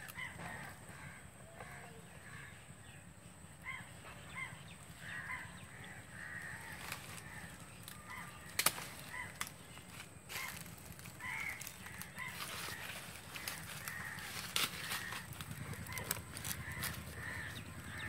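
Birds calling in short, repeated notes throughout, with scattered sharp clicks and rustles from a plastic basket and string being handled.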